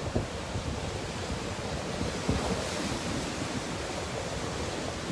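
Sea surf breaking on the beach, a steady wash of noise, with gusty wind buffeting the microphone.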